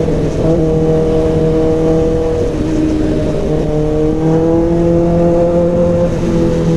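Kawasaki ZX6R's inline-four engine through an SC Project CRT exhaust, running at steady revs while riding, its pitch drifting slightly up and down.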